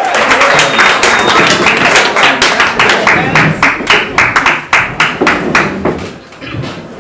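Audience clapping together in a steady rhythm, about four claps a second, with crowd cheering under it at first; the clapping dies away after about six seconds.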